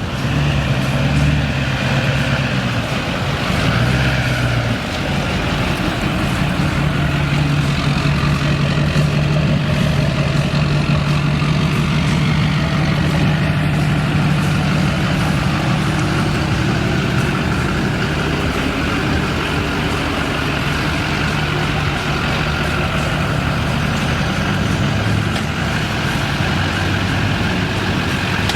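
Lifted diesel pickup truck's engine running at low speed as the truck pulls up, a steady low drone that shifts a little in pitch a few times.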